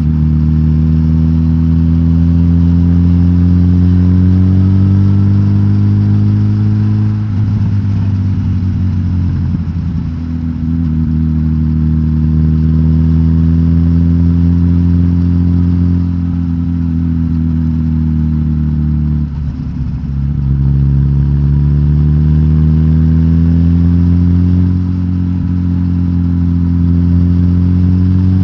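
Suzuki GSX-S1000GT's inline-four engine, decatted with the stock exhaust, running under light throttle. Its note climbs slowly for several seconds, drops sharply about seven seconds in and again near twenty seconds, and climbs again after each drop.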